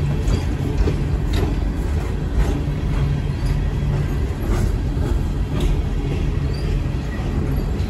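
Empty coal hopper cars of a freight train rolling past, a steady low rumble with a sharp wheel clack about once a second.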